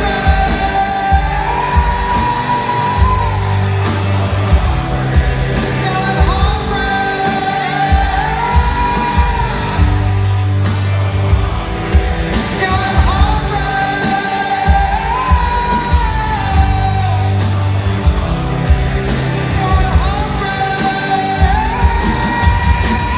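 Live rock band playing a slow rock song in an arena: a held, sliding sung vocal line over a steady drum beat, bass and guitars.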